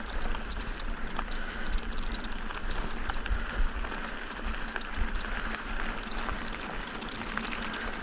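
Mountain bike rolling over rough dirt and rock, with a steady run of rattling clicks and ticks from the bike and its packs, and wind rumbling on the microphone.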